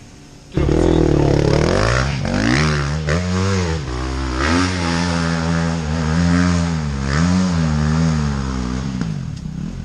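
An off-road vehicle engine starts suddenly and loudly, then revs up and falls back several times as the vehicle is ridden.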